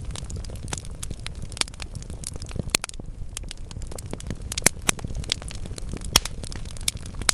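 Wood logs burning in a fireplace, crackling with frequent sharp pops over a low steady rumble of the flames. A few louder pops stand out, near the middle and toward the end.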